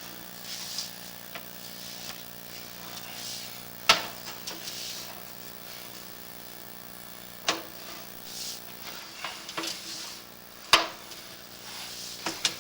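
Sewer inspection camera's push cable being fed by hand down the line: short scraping swishes and three sharp knocks, over a steady hum.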